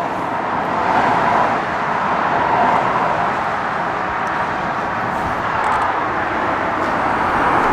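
Steady rush of motorway traffic passing close by, with tyre and wind noise that swells a little as vehicles go past.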